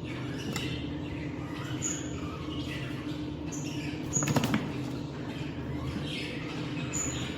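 Red-rumped parrots chirping, with short high whistles repeating every second or so over a steady low hum, and a brief rattle about four seconds in.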